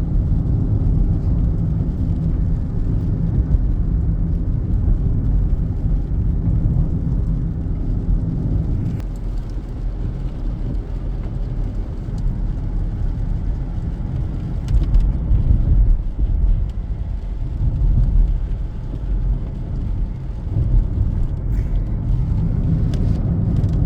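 Car's road noise and engine rumble heard from inside the cabin while driving steadily on wet roads, with a few faint ticks near the end.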